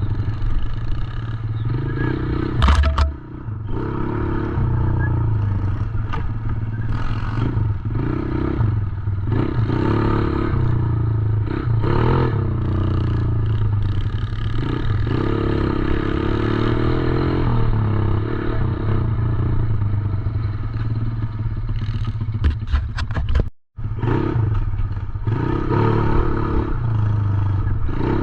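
Small 110cc dirt bike engine running, its pitch rising and falling as the throttle is worked. There is a sharp knock about three seconds in, and the sound cuts out for a moment near the end.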